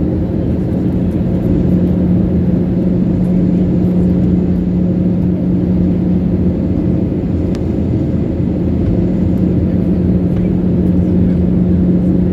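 Steady drone inside an airliner's cabin on the approach to landing: engine and airflow noise with a constant low hum, unchanging throughout.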